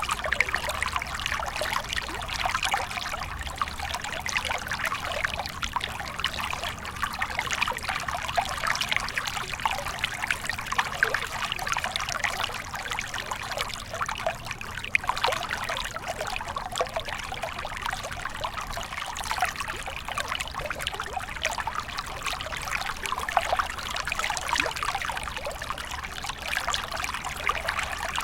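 A small water stream flowing and trickling steadily, with a constant babble of little splashes.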